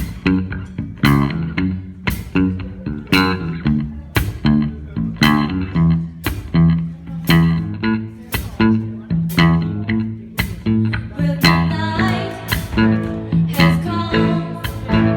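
Band music: electric bass and guitar over a drum beat with about two strokes a second. The sound fills out with more guitar or voice about twelve seconds in.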